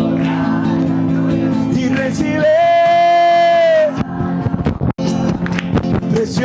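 Live worship song: a singer holds long notes over sustained band chords, with one long held note in the middle. The sound drops out for an instant about five seconds in.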